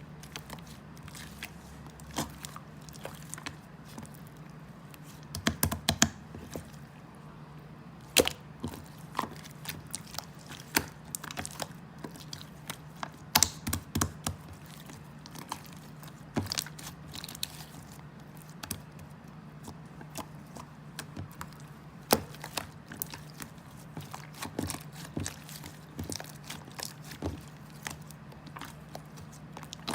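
Eating sounds picked up close to the microphone: irregular chewing and crunching with scattered sharp clicks, over a steady low hum.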